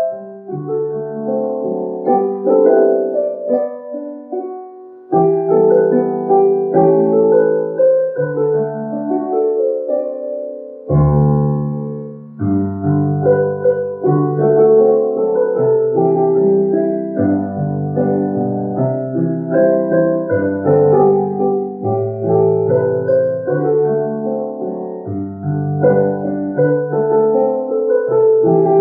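Solo piano playing a slow hymn accompaniment in sustained chords, with a deep bass note coming in about eleven seconds in.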